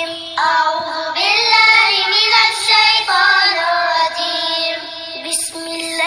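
A high voice reciting the Quran in a slow, melodic chant, with long held and ornamented notes.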